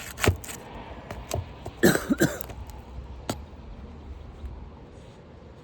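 A short cough about two seconds in, among scattered sharp clicks and scrapes from work on asphalt roof shingles.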